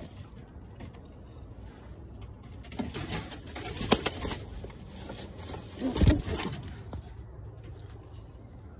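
Pigeons cooing, with a few sharp knocks and clatters around three to four seconds in and again about six seconds in.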